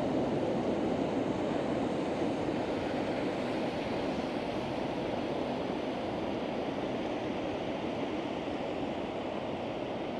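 Ocean surf: a steady wash of breaking waves, easing slightly after the first couple of seconds.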